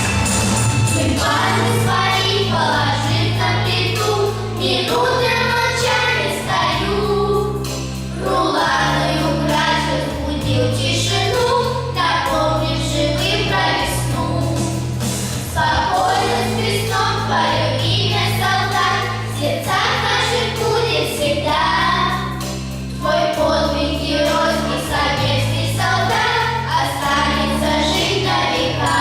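A vocal ensemble sings a song together over an instrumental accompaniment. The bass notes are held and change every second or two under the voices.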